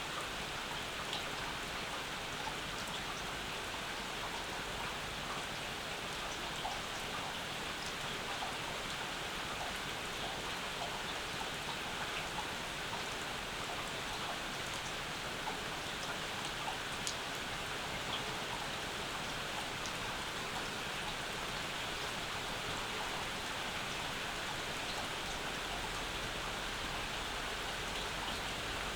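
Steady summer rain falling, with scattered individual drops ticking on nearby surfaces.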